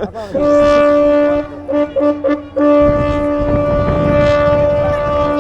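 Ship's horn sounding at one steady pitch: a blast of about a second, a few short toots, then a long blast held to the end.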